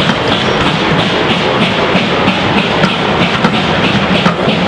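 Passenger coaches of a steam-hauled train rolling past close by: a loud, steady rumble of wheels on rail with irregular clicking over the rail joints.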